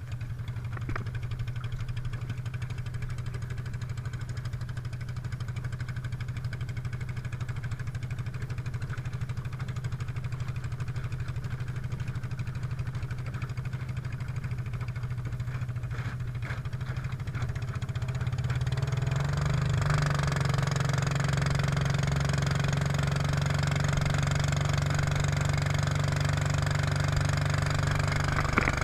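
Mud Buddy long-tail mud motor running steadily at low throttle, then revving up about two-thirds of the way in and holding a higher, louder steady note.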